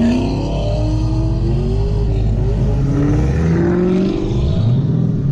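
Car engines accelerating on a track, the engine pitch rising through the gears, with a fresh climb about three and a half seconds in.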